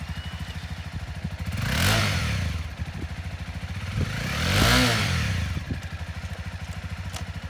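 Honda CB300F's single-cylinder engine idling with an even pulse, blipped twice to a short rev that rises and falls back to idle, about two and five seconds in.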